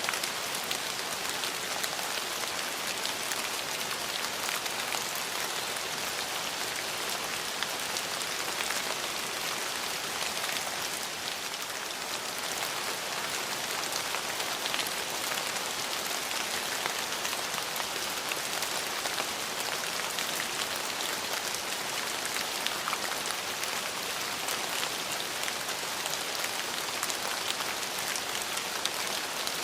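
Steady rainfall, with many small drop ticks over an even hiss.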